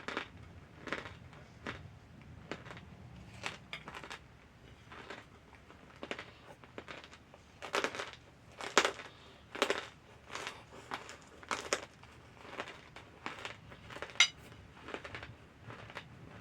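Cornstarch chunks being bitten and chewed: short crunches about once a second, a few of them louder.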